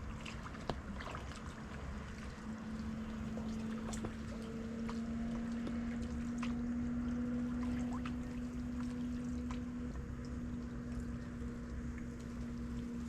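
Water splashing and trickling around a small boat on a river, with scattered light knocks and a steady low hum that swells through the middle.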